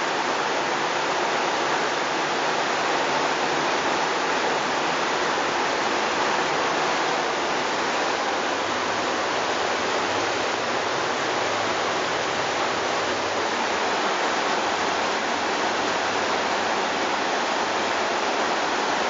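Rainwater runoff pouring down a stepped concrete street stairway like a cascade: a loud, steady rush of falling water.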